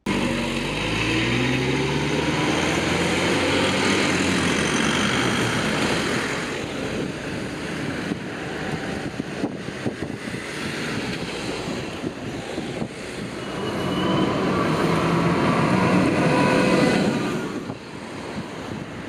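Motor vehicle engines and tyres on a street, with vehicles passing. The engine pitch falls in the first few seconds, and the sound swells again as another vehicle goes by near the end.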